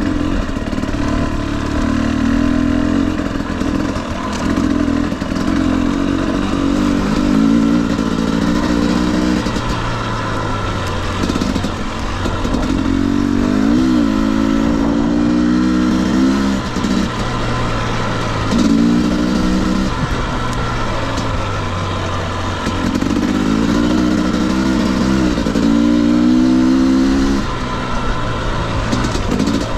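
2021 Husqvarna TE250i two-stroke dirt bike engine revving up and down as the throttle is opened and closed in short bursts every few seconds.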